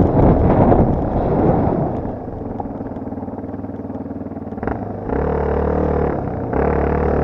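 Enduro motorcycle engine: loud riding noise at first, settling to a quieter steady run after about two seconds, then revved up twice for a second or so each near the end.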